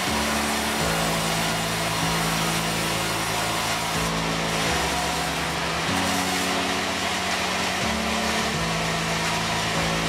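Band sawmill running, its blade cutting through timber: a steady sawing noise over the low hum of the machine's drive, which shifts in pitch every second or two.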